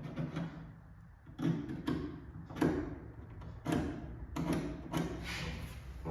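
Irregular knocks, clunks and scrapes of parts and tools being handled, several short hits spread unevenly through the stretch.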